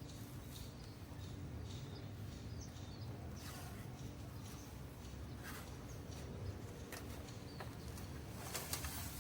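Faint bird chirps over a low steady hum, with scattered clicks and rustles, the strongest near the end.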